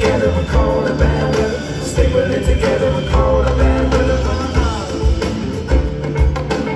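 Live band playing a song, with a steady drum beat under sustained pitched instruments and a voice singing.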